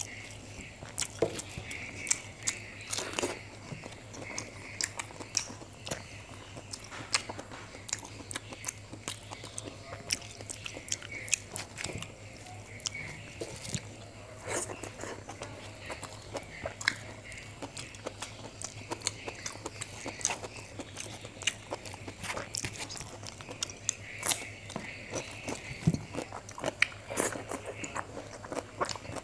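Close-miked chewing and lip smacking of a person eating by hand, with many short, irregular clicks, over a steady low hum.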